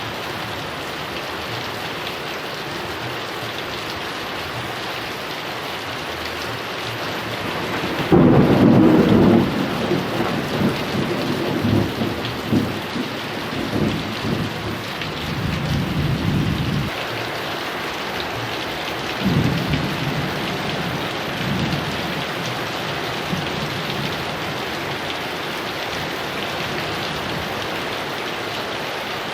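Heavy rain falling steadily, with a clap of thunder about a quarter of the way in that rolls and rumbles for several seconds, a further rumble a little later, then the rain alone.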